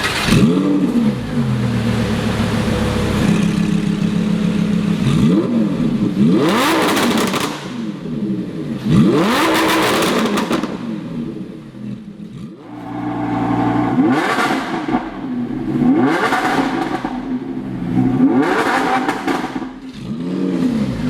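Lamborghini Huracan's V10 engine, breathing through an aftermarket Capristo exhaust, revved repeatedly: about six or seven rises in pitch, each falling back to a steady idle.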